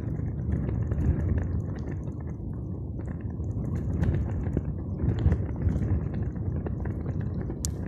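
Water splashing and dripping over a steady low rumble, with scattered small ticks.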